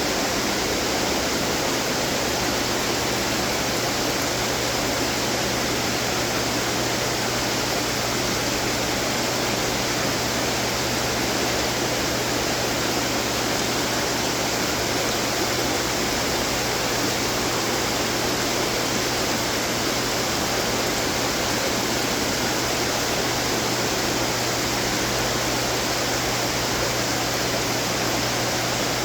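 Running water fountains: a steady wash of water splashing and trickling, with a steady low hum beneath it.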